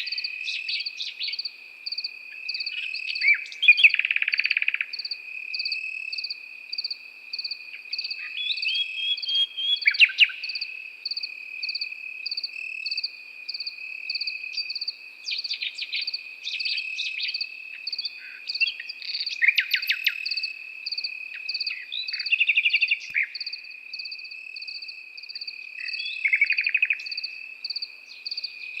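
Nightingale singing in short separate phrases, several of them rapid rattling trills, over crickets: one steady continuous high trill and a second high chirp pulsing at an even rhythm.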